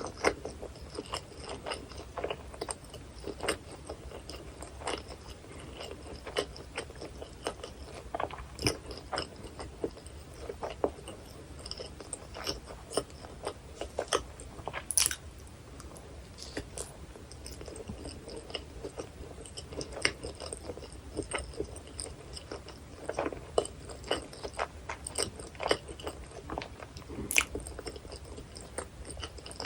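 Close-miked chewing and biting of a New York-style hot dog topped with onion, chili and cheese sauce: irregular crunchy, wet clicks and crackles of the mouth working through the bun and toppings.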